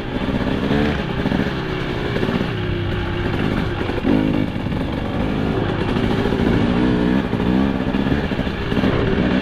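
2025 KTM 300 XC two-stroke dirt bike engine running under a rider, its pitch rising and falling repeatedly as the throttle is opened and closed.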